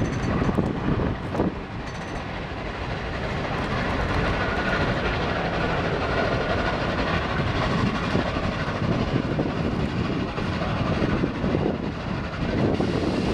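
Steam-hauled passenger train running, heard from aboard one of its cars: a steady noise of wheels on the rails.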